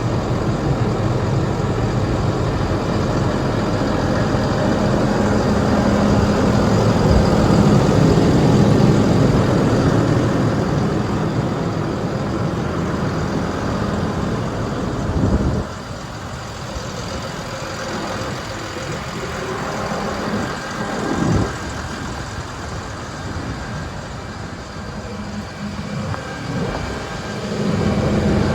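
Diesel engine of a 2017 Case CVX 270 tractor running steadily with a low hum. About halfway through it becomes clearly quieter, with a couple of brief bumps, and it grows louder again near the end.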